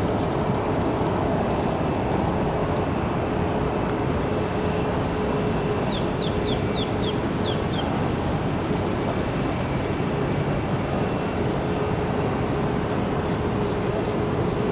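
Steady jet aircraft engine noise with a constant hum. About six seconds in, a small bird gives a quick run of about seven chirps.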